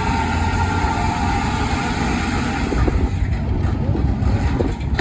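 A running engine with a low rumble and a broad hiss, and a steady tone over it that stops about two and a half seconds in.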